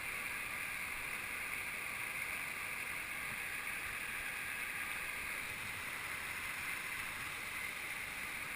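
Steady rush of a waterfall: an even hiss of falling water with no breaks.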